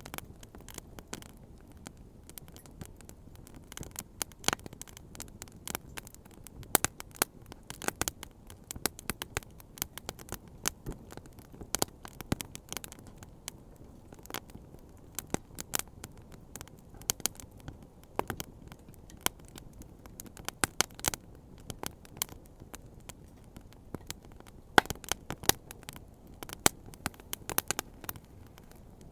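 Wood bonfire crackling: irregular sharp pops and snaps, sometimes several in quick succession, over a faint low steady rumble.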